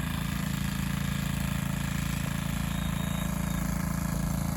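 Excavator's diesel engine running steadily: a low, even drone with no revving or change in pitch.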